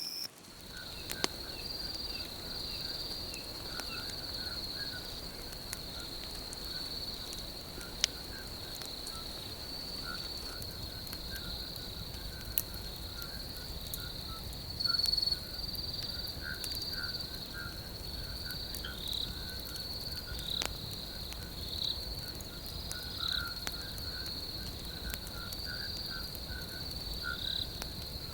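Night insect chorus: a continuous high-pitched cricket trill with short, irregular chirps lower in pitch over a low background hiss. A few sharp single pops stand out, about four times across the stretch.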